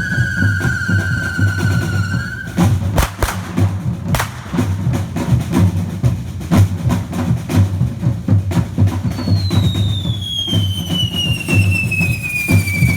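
Tabal drums beating a steady, dense rhythm while a whistling firework sounds over them, its high whistle slowly falling in pitch until it cuts off about two and a half seconds in, followed by sharp bangs. About nine seconds in, another firework whistle starts high and slowly falls.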